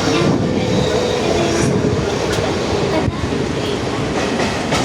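Mumbai local train running, heard from inside the coach: a steady, loud rattle of wheels and carriage, with a few sharp clicks.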